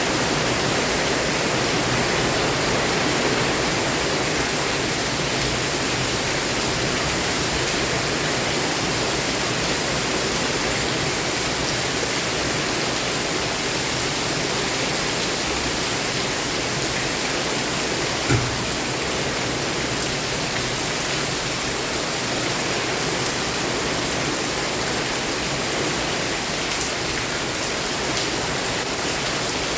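Heavy rain falling steadily in an even, dense hiss. One brief thump sounds about two-thirds of the way through.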